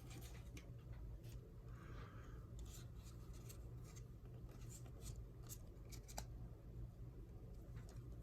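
Faint handling of trading cards and a booster pack: scattered small clicks and a brief soft rustle about two seconds in, over a low steady hum.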